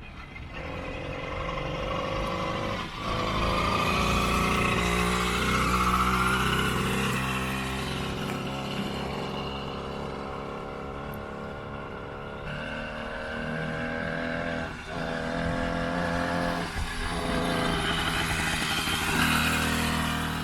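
Small two-stroke bicycle motor kit running under way on a mountain bike, its pitch rising and falling as the rider speeds up and eases off. The engine is new and still in its break-in period.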